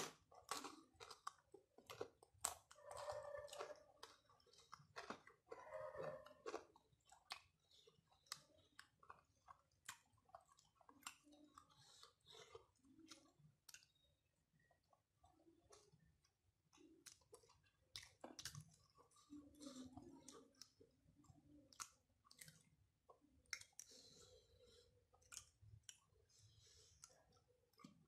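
Faint close-up eating sounds of a person chewing a mouthful of rice and fish, with irregular wet mouth clicks and smacks, and soft sounds of fingers gathering rice on the plate.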